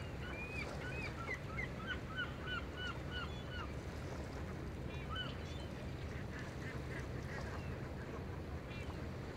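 Birds calling: a quick run of short, sharp calls for the first few seconds and a few more about five seconds in, over a steady low rumble.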